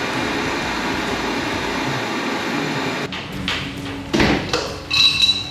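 A power tool runs steadily for about three seconds and cuts off abruptly, followed by a few sharp metal clanks and a ringing clink near the end.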